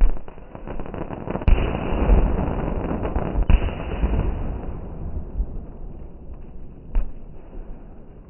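Fireworks exploding. A sharp bang comes at the start, two more about a second and a half and three and a half seconds in with a rumbling crackle between them that fades, and a last bang near the end.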